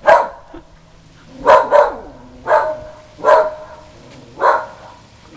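Whippet barking at the sight of a blimp overhead: six short, sharp barks about a second apart, two of them in quick succession. She is normally a quiet dog set off into a barking frenzy by the blimp.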